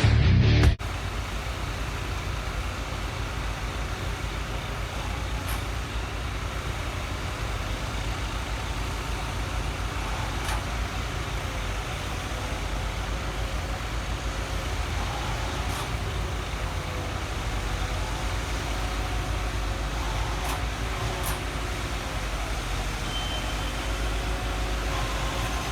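Intro music cuts off under a second in, followed by a steady, low engine rumble with a faint wavering hum over it.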